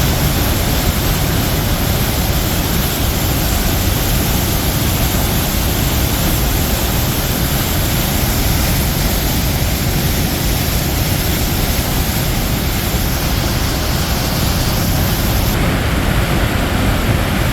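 Athabasca Falls: the Athabasca River pouring through its gorge in a loud, steady rush of water.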